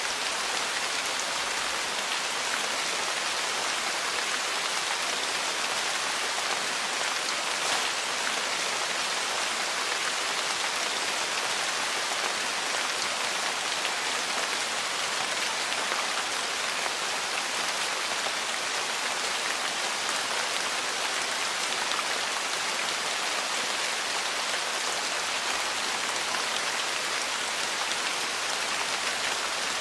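Steady rain falling on a porch, an even hiss with scattered faint drop ticks.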